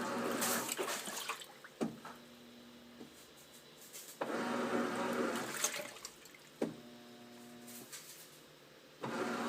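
Sharp ES-TG5KC washing machine running a wash: water surges in three bursts of about a second and a half, roughly every four and a half seconds. Between them comes a short electric hum with a click at its start and end. The owner puts the machine's failure down to a faulty motor.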